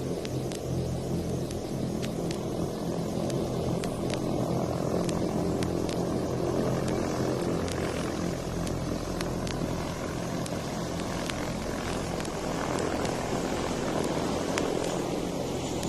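Vehicle engines running at a steady, continuous drone with a low hum beneath, with faint record clicks on top.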